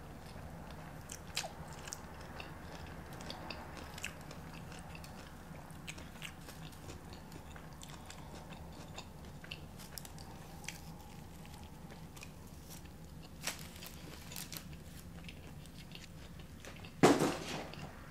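Close-miked eating sounds: a person chewing and biting fast food, with scattered small crunches and wet mouth clicks. A louder mouth sound comes near the end.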